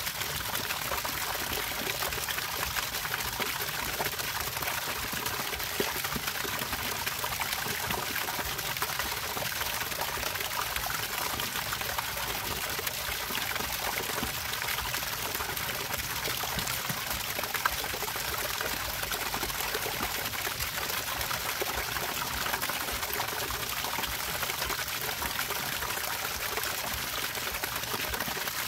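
Running water trickling and splashing steadily, without pause.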